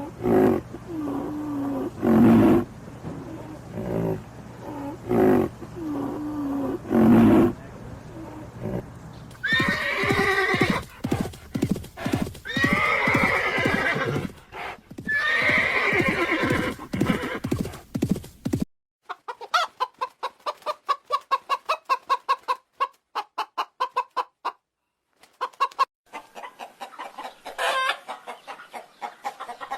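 Horse whinnying several times in long, wavering high calls. Before it come repeated lower animal calls, and after it a fast run of short clicking pulses.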